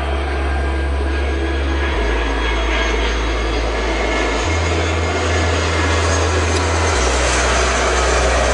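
Airliner engines passing close by: a steady rushing noise that grows slightly louder, over background music with a slow bass line.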